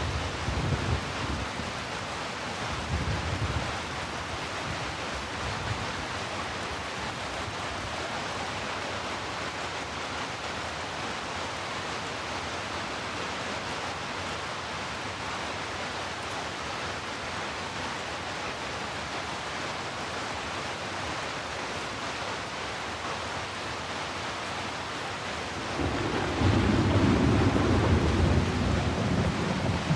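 Heavy rain falling steadily, with rolls of thunder: a low rumble in the first few seconds and a louder one starting near the end.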